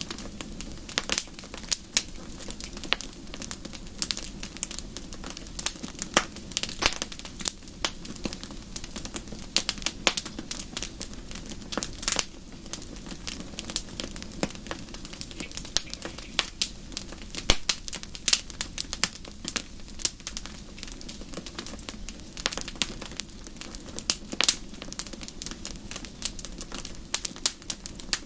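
Wood fire in a fireplace crackling and popping: many sharp snaps at irregular intervals over a low steady hiss of flames.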